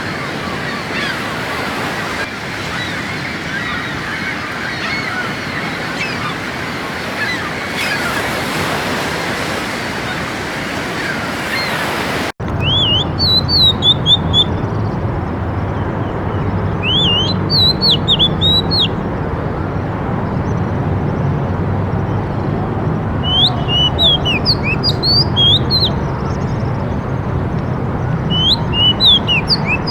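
Birdsong over a steady rushing background. Many small chirps run through it until an abrupt cut about twelve seconds in. After that come clear, repeated whistled song phrases over a low steady rumble.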